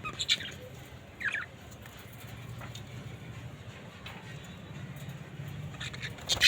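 Budgerigars giving short, sharp chirps: two near the start and a louder one near the end, over a low steady hum.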